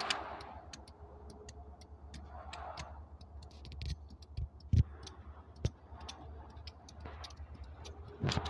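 Alaska Railroad passenger train rolling slowly past, over a steady low rumble. Its wheels give scattered clicks and, about five seconds in, a couple of heavier knocks.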